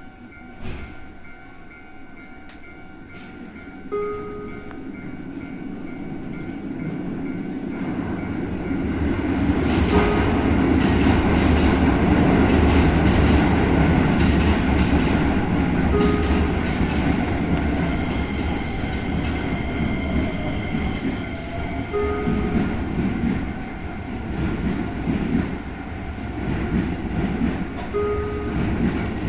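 Inside a Keisei 3100-series train car as it pulls away: quiet at first, then the running noise of motors and wheels on rail builds up over several seconds into a loud steady rumble. A short beep-like tone repeats about every six seconds.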